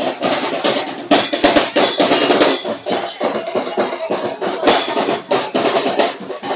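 Street-dance percussion band drumming a fast, dense beat on snare and bass drums.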